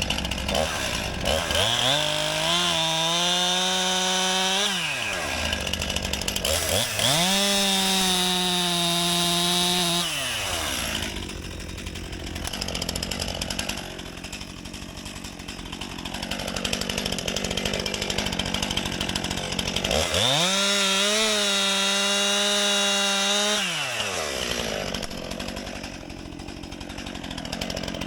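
Two-stroke chainsaw run up to full throttle three times, holding a high steady pitch for three to four seconds each time and dropping back to idle in between.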